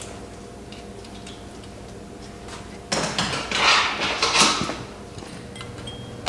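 Metal tools clinking and rattling for about two seconds, starting about halfway in, over a steady low hum.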